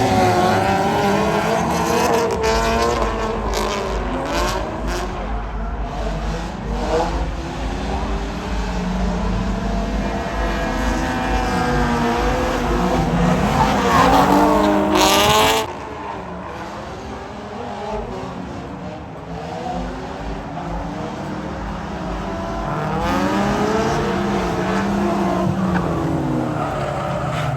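Car engines revving hard with tires squealing, their pitch sweeping up and down, loudest in the first half and dropping off sharply about fifteen seconds in before building again.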